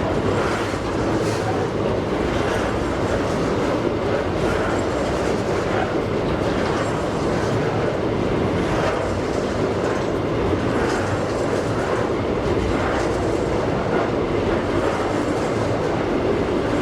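Freight train wagons rolling past: a steady rumble of steel wheels on rail, with repeated clacks over the rail joints.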